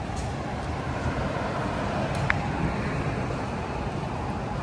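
Steady outdoor background noise like passing traffic, with a brief high chirp about two seconds in.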